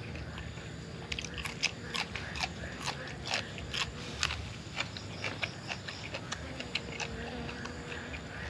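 A man crunching on a raw green vegetable stalk close to the microphone: a run of sharp, crisp bites and chews starting about a second in, thinning out after the middle.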